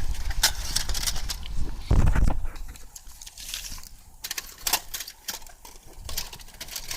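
Irregular clicks and knocks, with a low rumble about two seconds in.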